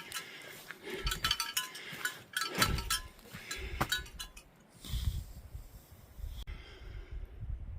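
Bear bells jingling with each stride of a walking hiker, with dull footfalls underneath. The jingling is busiest for the first three seconds, then thins out.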